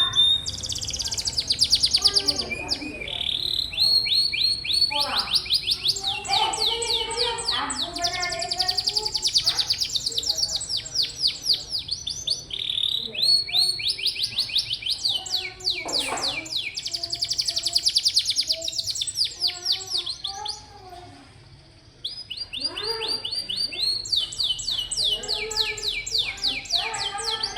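Domestic canary singing a long, fast song of rapid trills, each a run of quickly repeated notes, with warbling lower notes between them. It breaks off briefly about three-quarters of the way through, then starts again.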